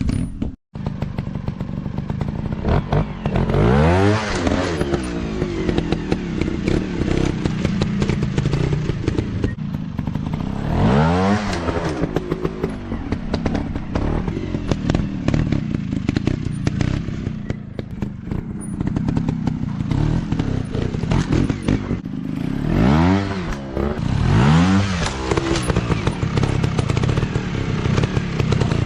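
Dirt bike engines running and revving hard over rough ground, the engine pitch climbing and falling in four sharp bursts, with steady clatter and knocks throughout.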